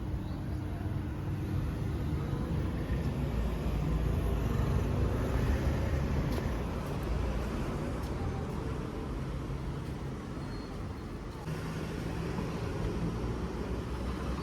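Car running on the road: steady engine and road rumble, with a slight change in the sound near the end.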